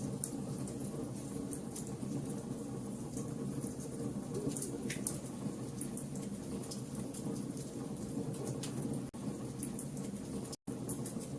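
Wood fire crackling: a steady low rumble of flames with many sharp, irregular pops and snaps, and a couple of short falling squeals. The sound cuts out completely for an instant near the end.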